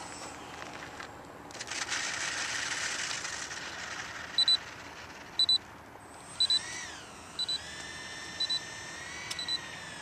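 Electric ducted-fan whine of a radio-controlled Airbus A380 model in flight, dipping and rising in pitch then holding steady. Over it, from about four seconds in, a short electronic double beep repeats about once a second and is the loudest sound.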